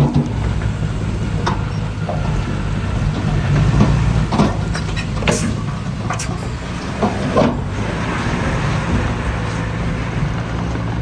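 Diesel engine of heavy earthmoving machinery running steadily under work, with scattered sharp clanks and knocks of metal and stone.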